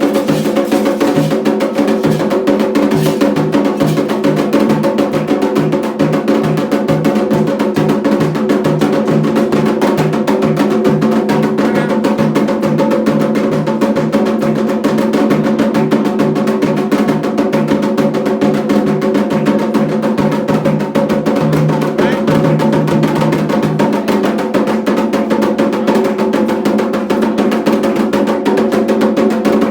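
Continuous ritual hand-drumming with a steady low pulse, as played on atabaque drums for Xangô in Candomblé. The low pulse drops out near the end while the rest of the percussion keeps going.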